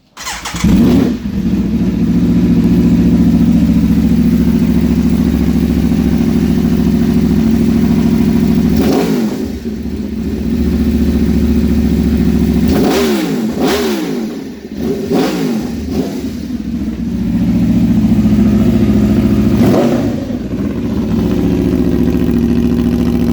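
Aprilia RSV4 RR's V4 engine, fitted with an SC Project CR-T header and exhaust, starts about half a second in and then idles very loudly. Several short throttle blips rise and fall in pitch, three of them in quick succession near the middle.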